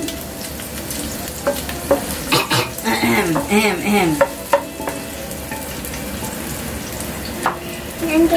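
Chopped onion frying in hot olive oil in a stainless steel pot on medium heat, a steady sizzle with scattered crackles and pops.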